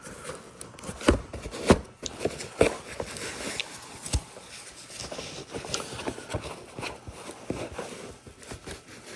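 Hands handling microphones and their packaging: rustling and scraping, with several sharp knocks and clunks as things are picked up and set down.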